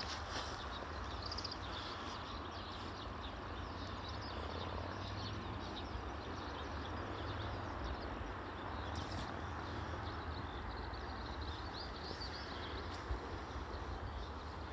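Bonfire crackling with many small irregular pops, over a low steady rumble.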